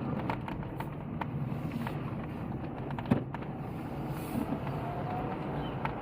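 Car driving with a window open: steady road and wind noise, with scattered small clicks and one sharper knock about three seconds in.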